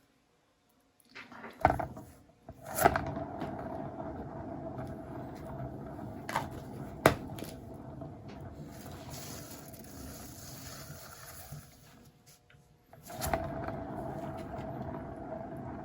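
Hairdryer blowing steadily with a fixed motor whine under its air hiss, starting about three seconds in after a few clicks. It stops for about a second near twelve seconds, then runs again.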